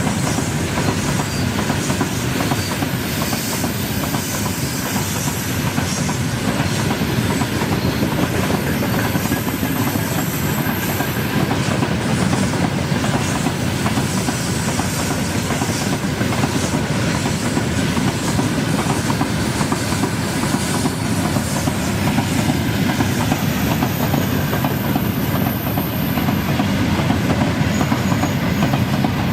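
Train wagons rolling past on the track, wheels clattering steadily over the rail joints.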